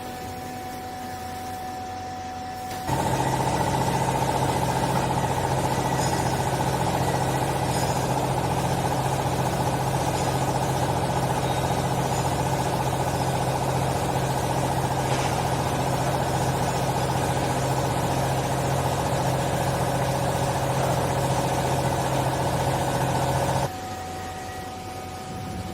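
Hydraulic power unit of a textile baler (electric motor driving the hydraulic pump) running steadily with a hum and whine, switching on suddenly about three seconds in and cutting off near the end.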